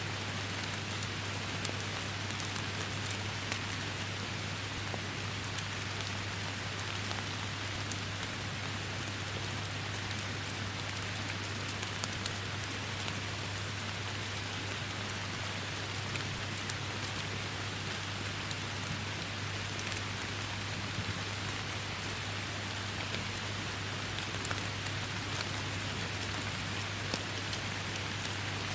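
Steady forest rain: an even hiss of falling rain with many individual drops ticking sharply throughout.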